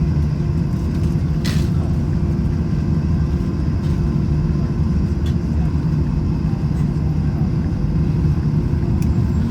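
Airbus A321 passenger cabin while taxiing after landing: a steady low rumble from the engines and the rolling airliner. A brief sharp click sounds about one and a half seconds in.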